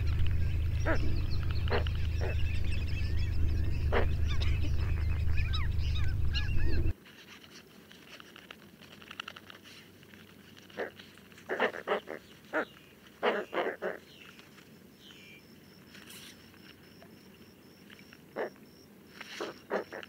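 Bird calls. For about the first seven seconds, high chirps and short calls sit over a loud low rumble. Then the sound drops suddenly, and short calls come in clusters of two or three.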